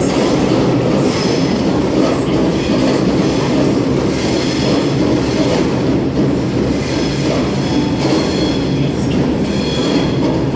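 Sydney Trains double-deck electric train running along the platform, with a steady rumble of wheels on rail and thin high-pitched wheel squeals that come and go.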